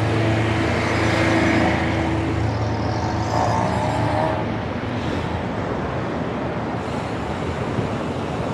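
Busy city road traffic heard from a bicycle: passing cars and buses with tyre and engine noise, and a large vehicle's engine running steadily close by for the first couple of seconds.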